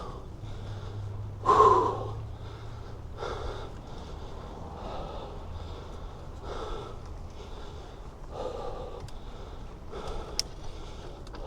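A cyclist's heavy breathing close to the microphone, one loud breath about every second and a half to two seconds, the strongest about a second and a half in. He is panting from the effort of pedalling uphill in the heat.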